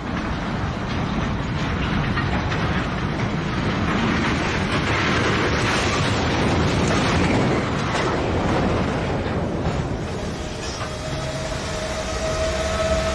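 Train rolling on rails, with loud, dense rumbling and wheel clatter over the track. About ten seconds in, a steady high tone joins the noise.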